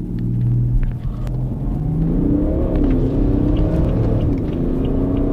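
Turbodiesel car engine accelerating hard at full throttle, heard from inside the cabin. The engine note grows louder over the first second and climbs in pitch, dips briefly about two and a half seconds in at a gear change, then climbs again.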